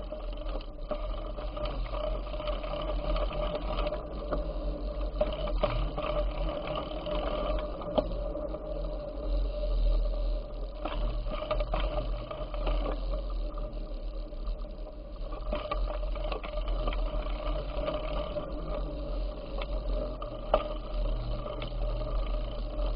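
Bicycle in motion: a steady whirring hum from the moving bike, over a heavy low rumble of wind on the microphone, with a few sharp clicks or knocks.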